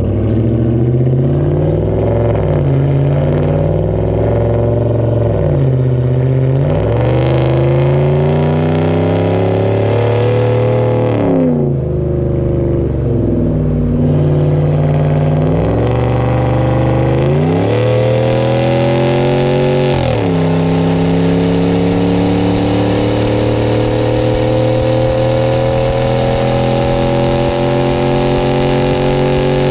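2019 Dodge Ram 1500 pickup with a Flowmaster Outlaw exhaust and deleted resonators, accelerating hard. The exhaust note climbs in pitch and drops sharply at each upshift of the automatic transmission, about five times, then rises slowly and steadily in a high gear for the last ten seconds or so.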